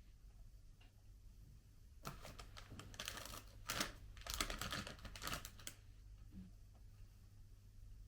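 Faint crinkling and rustling of chocolate wrappers being handled, in short crackly bursts from about two to six seconds in, over a steady low hum.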